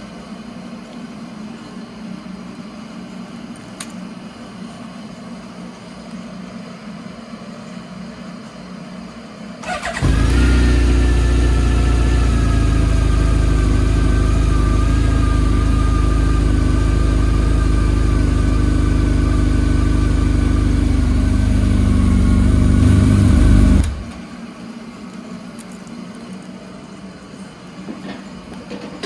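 Honda CB1300SF inline-four motorcycle engine starting about ten seconds in and running steadily for about fourteen seconds, its pitch easing down slightly, then cutting off abruptly.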